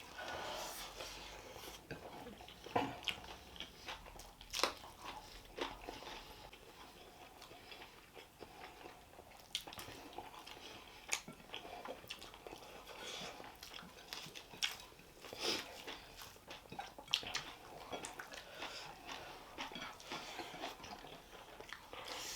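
Close-miked chewing and biting of food, with scattered sharp clicks and small crunches at irregular intervals.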